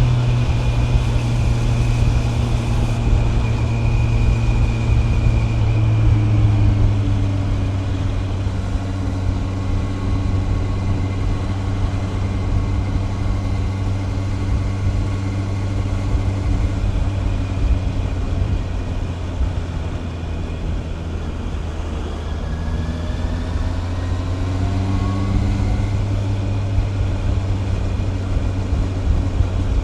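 Honda CB650R's 649 cc inline-four engine running under way. The engine note drops in pitch about seven seconds in, holds steady, then climbs again from about 22 seconds as the bike speeds up.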